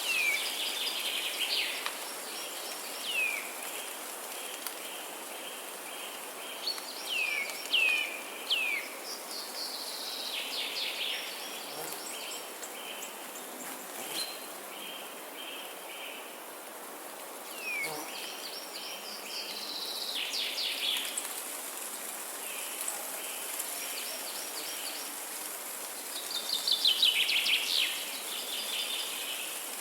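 Wild birds singing: bursts of quick down-slurred chirps and rapid trills, the loudest near a quarter of the way in and near the end. Under them a steady high insect buzz and an even outdoor hiss carry on.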